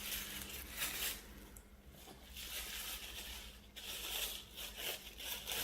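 Paper wrapping being torn and crinkled open by hand, in bursts of rustling with short pauses between them.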